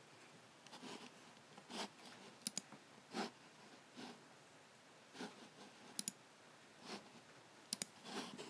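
Logitech G7 computer mouse button clicking, three quick sharp double clicks spread through the stretch. Between them come softer, duller rubbing sounds.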